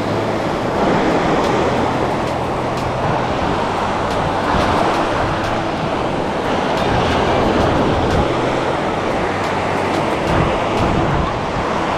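Steady rushing of water, swelling a little every few seconds, over a faint low steady hum.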